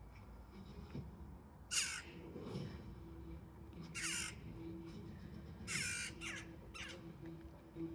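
A jackdaw calling: five short calls, the first about two seconds in and the last near the end, the third the longest.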